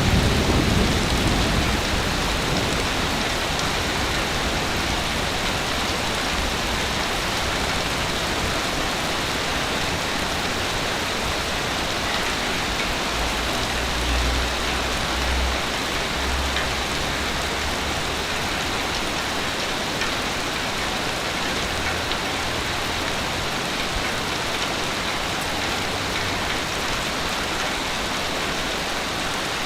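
Steady, heavy rain hiss with low rumbles of thunder: one fading out in the first couple of seconds and a couple more, short and low, in the middle.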